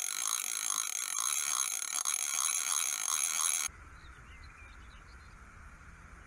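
A loud, bright sound full of high steady tones with a faint pulsing rhythm, which cuts off suddenly after about three and a half seconds. It gives way to quieter open-air ambience with small birds chirping faintly.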